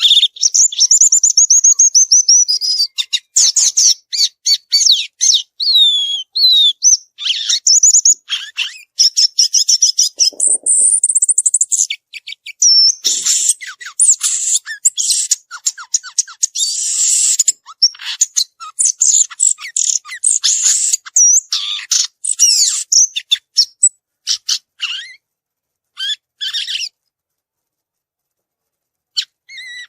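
Violaceous euphonia singing a long, varied song of rapid high chirps, trills and sliding whistled notes. It goes quiet for about two seconds near the end, then starts again.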